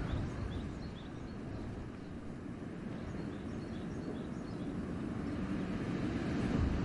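Wind gusting through a winter forest, easing about two seconds in and then building again, with faint high bird chirps scattered through it.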